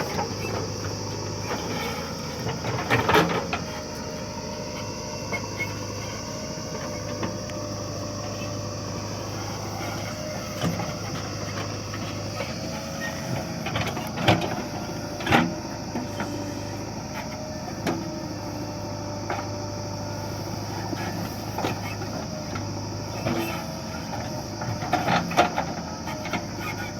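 Swaraj tractor engine running steadily under a high, steady hiss, with several loud knocks or clatters about three seconds in, twice around the middle, and again near the end.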